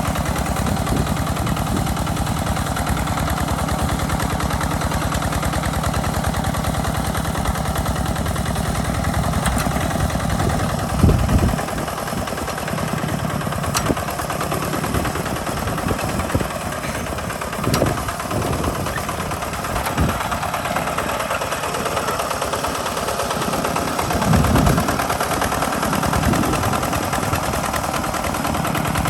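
Two-wheel walking hand tractor's engine running steadily under plowing load, a rapid even putt-putt of firing pulses, with brief swells in the engine note about 11, 18 and 25 seconds in.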